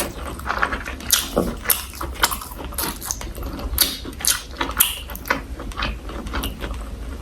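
Close chewing and crunching of crisp food such as kimchi, pickled garlic and raw vegetables, with irregular sharp crunches and mouth clicks about once or twice a second.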